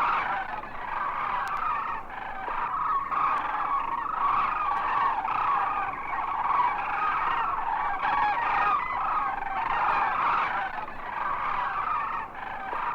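A flock of vultures cawing and squawking: many short, overlapping calls in a continuous racket.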